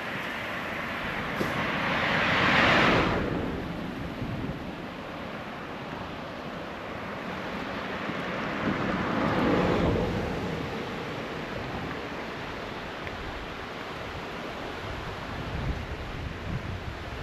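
Outdoor rushing noise with two louder swells that build and fade, about two seconds in and again near ten seconds, and low buffeting near the end.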